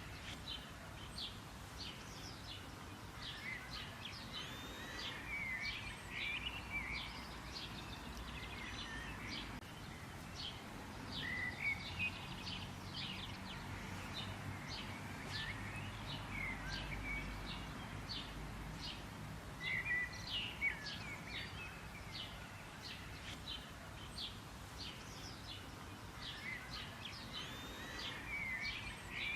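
Several songbirds chirping and trilling in a steady chorus of many short, high notes, over a soft low background rumble.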